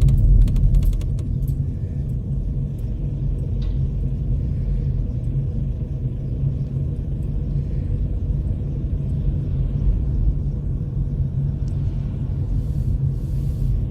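Steady low rumble of a car driving along a road, with a few light clicks in the first second.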